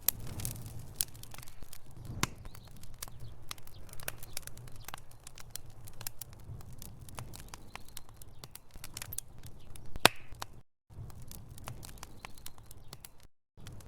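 Wood fire burning in a fireplace: logs crackling with irregular sharp pops over a low rumble, and one louder pop about ten seconds in. The sound cuts out to silence twice, briefly, near the end.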